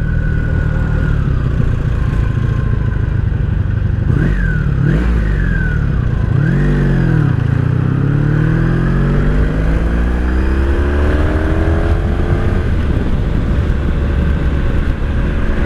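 1983 Honda Sabre VF750S V4 engine running under way. Its revs dip and pick up again a few times about four to seven seconds in, then climb steadily for several seconds as the bike accelerates, and level off near the end.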